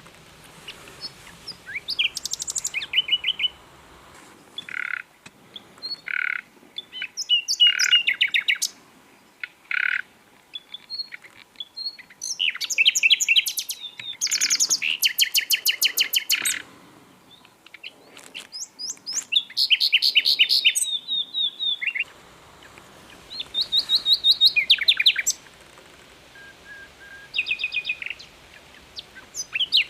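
Common nightingale singing: a string of varied phrases with short pauses between them. The phrases mix fast trills and rapid repeated notes with a few clear, drawn-out single whistles. The loudest is a long, fast trill in the middle.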